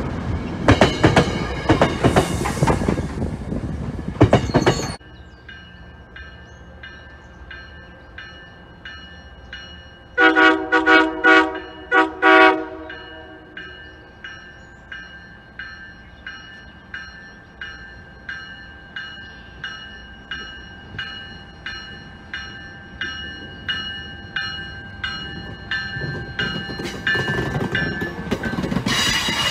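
A train passing close with wheel clatter, cutting off abruptly about five seconds in. Then a bell rings steadily, about one and a half strikes a second. Around ten seconds in a train horn sounds about five short toots in a playful horn show, and near the end another train's noise builds as it approaches.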